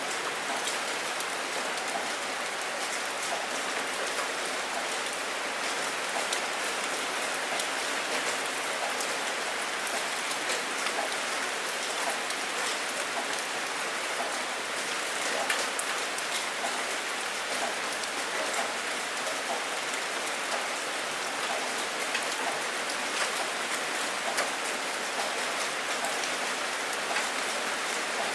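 Steady rain falling and pattering on a surface, with many distinct drops ticking through it; no thunder is heard.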